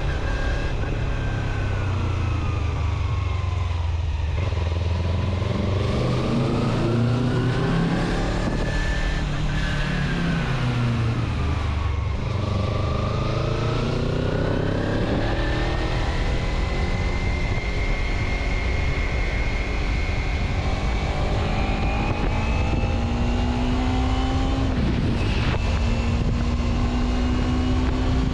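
Road vehicle engine running on the move, its pitch falling and rising twice as it slows and speeds up, then holding steady and climbing slowly, over constant road noise.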